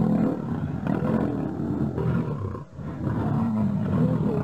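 Lions growling in a fight, several deep voices overlapping almost without a break, with one short lull about two-thirds of the way through.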